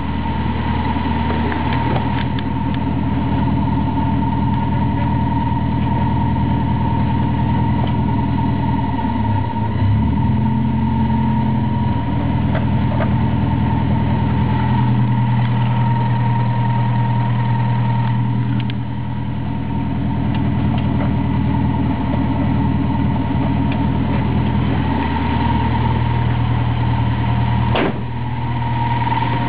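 Toyota 4A-GE small-port four-cylinder engine idling, with a steady high whining tone over the idle. The speed changes briefly about ten seconds in, and there is one sharp click near the end. The odd noise began after a clutch replacement and is not from the water pump or alternator bearings.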